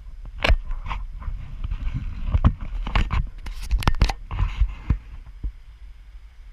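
Irregular knocks, scrapes and splashy thuds of someone wading across a shallow creek, heard muffled through a GoPro's waterproof housing over a low rumble; the knocks bunch up in the middle and die away after about five seconds.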